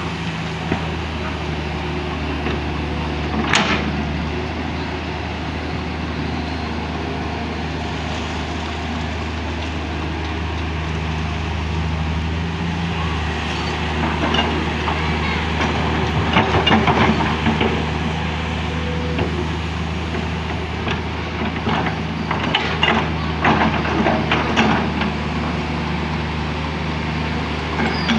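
Excavator diesel engine running steadily, with clanks and clattering about a few seconds in, around the middle, and again later.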